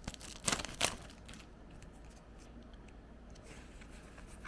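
Crinkling of a Pokémon card booster pack wrapper as cards are handled, with a few sharp crackles in the first second, then faint rustling.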